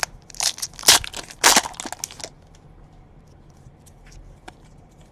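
A trading-card pack's wrapper being torn open and crumpled, a loud crinkling run in the first two seconds or so, followed by a few faint clicks as the cards are handled.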